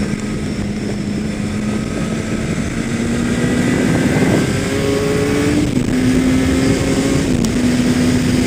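Kawasaki ZX-10R inline-four sport bike engine running at speed, its pitch climbing slowly, with a couple of small steps in pitch in the second half. Steady wind noise lies underneath.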